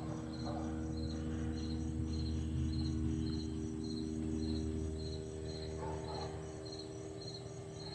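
A cricket chirping steadily, about two short high chirps a second, over a steady low hum.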